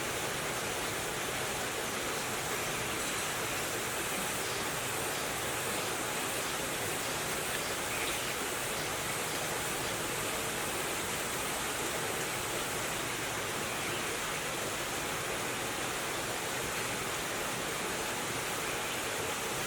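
Steady rushing noise, even and unbroken, like flowing water, with a faint tick near the end.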